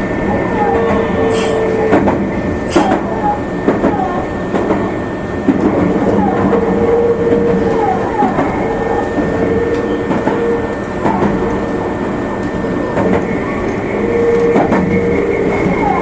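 Meitetsu limited express train running at speed: steady rolling noise with a hum that swells and fades, a steady high tone, and wheels clicking over rail joints every few seconds.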